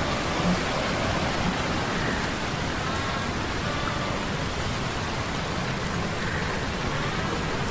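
Sea storm sound effect: a steady wash of rain-like storm noise, with a few faint short humming tones from metal gears now and then.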